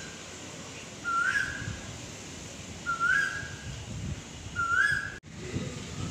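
A bird repeating a short whistled call three times, about every two seconds: each call is a quick upward slur into a briefly held note.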